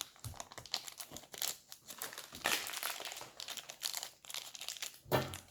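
Plastic toy packaging crinkling and crackling irregularly as it is handled and opened, with a brief bump about five seconds in.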